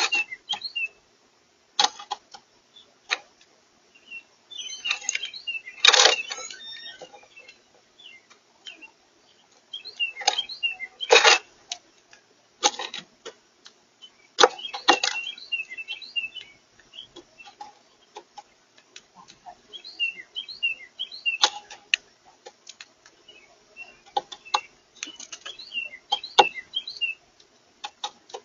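Birds chirping in short clusters of high notes, mixed with sharp clicks and taps throughout.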